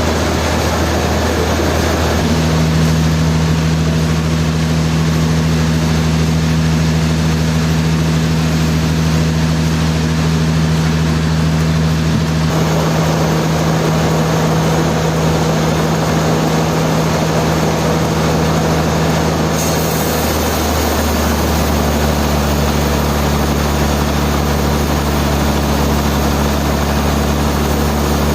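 Heavy sawmill machinery running with a steady low hum. The hum's pitch shifts a little a few times, about two, twelve and twenty seconds in.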